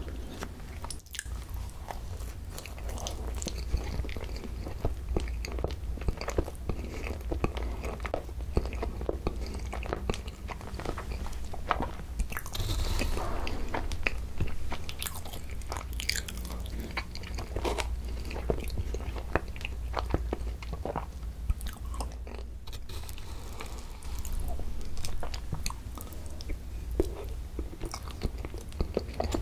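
Close-miked chewing and wet mouth sounds of eating cream bread and spoonfuls of ice cream, with many small smacks and clicks throughout.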